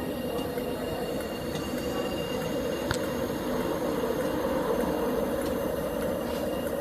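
Class 331 electric multiple unit moving through the station: a steady rumble with faint high tones, one of them slowly rising, and a single sharp click about three seconds in.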